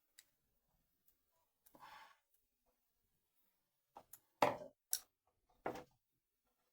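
Small hand tools and metal parts being handled during a repair. A short soft rustle comes about two seconds in, then a cluster of sharp clicks and clacks between about four and six seconds in, the loudest about four and a half seconds in.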